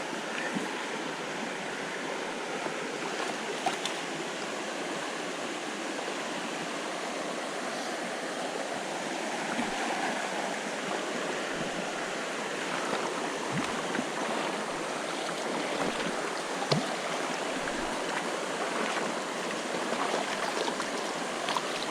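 Freshwater jungle creek water running steadily, with a few faint clicks or knocks here and there.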